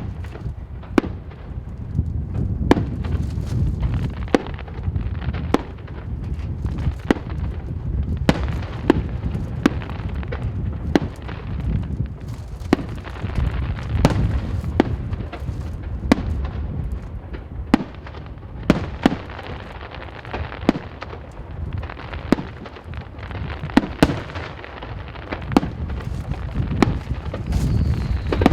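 Aerial fireworks bursting in a steady run of sharp bangs, about one or two a second, over a continuous low rumble of booms and their echoes.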